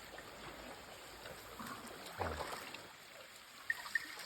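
Faint, steady trickling and splashing of water. About two seconds in, a short low pitched sound rises over it, and two brief high chirps come near the end.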